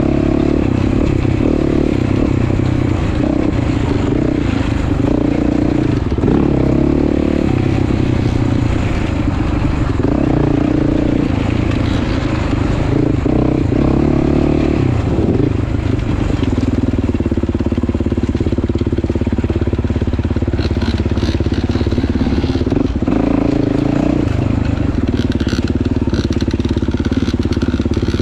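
Motorcycle engine running under way, its note shifting up and down several times as the rider changes speed.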